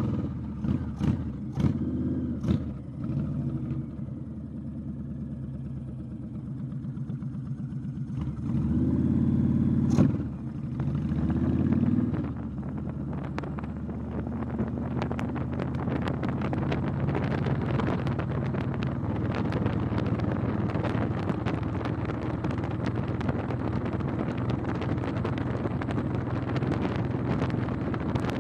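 Motorcycle engine running at low speed, with a few sharp knocks in the first few seconds. It revs up louder about eight seconds in, then runs steadily under way with wind and road noise filling in over the rest.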